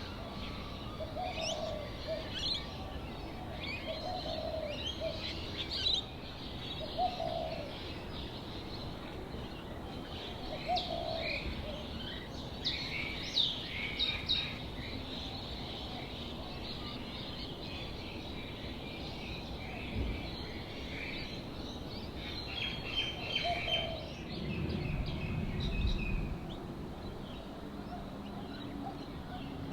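Several birds calling: a busy stream of short high chirps and tweets, with a lower short call coming back every few seconds.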